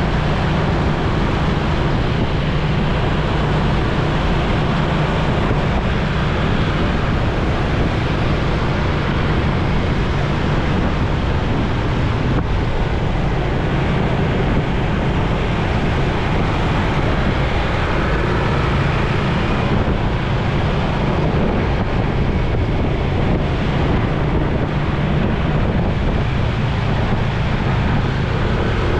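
Steady wind rush on the microphone over a motorcycle engine running at cruising speed, with road and traffic noise.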